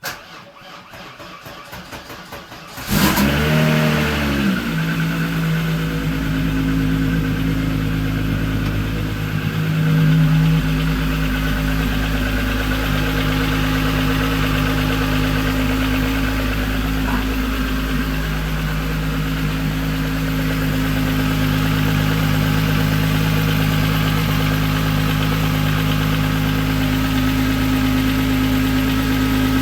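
Volkswagen VR6 engine cranked over by the starter for about three seconds, catching, rising briefly and settling into a steady idle, with a small rise in speed around ten seconds in. The engine has the ticking noise that the owner suspects is valve or lifter noise, which appears for the first few minutes after starting and then goes away.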